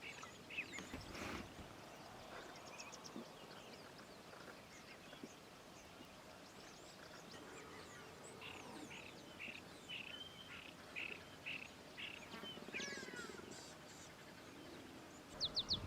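Faint bird calls: scattered chirps, then a run of about eight short, evenly spaced notes around the middle, followed by a few quick gliding calls.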